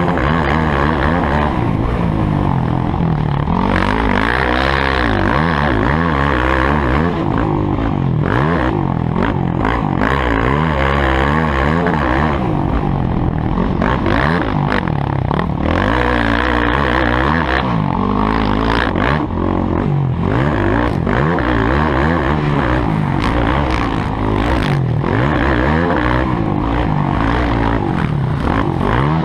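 Motocross bike engines revving, the pitch rising and falling again and again as the throttle opens and closes.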